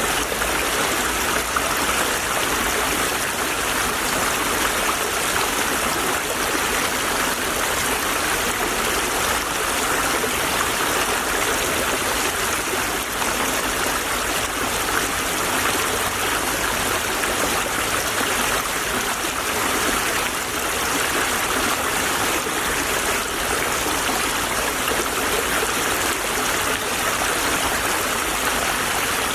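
Shallow stream babbling and trickling over stones, a steady, unbroken rush of water.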